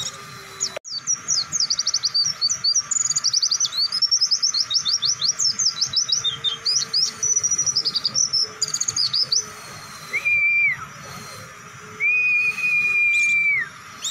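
Pleci (white-eye) singing a long, fast song of rapid high chirping notes. Near the end come two long, level whistles, each dropping in pitch as it ends.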